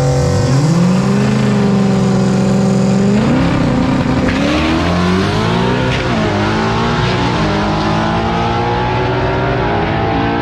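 Street cars making a drag-strip run, engines accelerating hard under load. The engine notes rise early and then shift in pitch several times.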